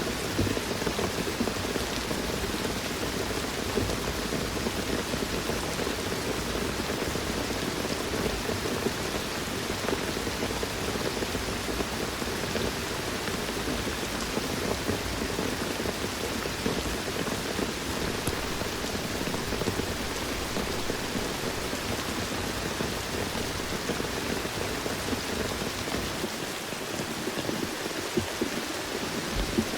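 Steady rain falling, an even hiss that runs without a break.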